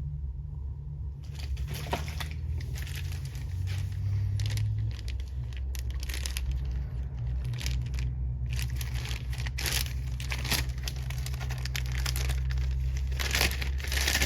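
Irregular scratching, scraping and clicking of a seal pick working at a stubborn output shaft seal in a ZF 8HP70 transmission case. Under it runs a low steady hum.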